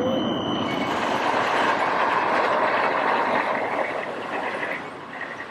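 Embraer ERJ regional jet's turbofan engines during landing: a steady rushing roar with a thin high whine that stops within the first second, the roar fading away near the end.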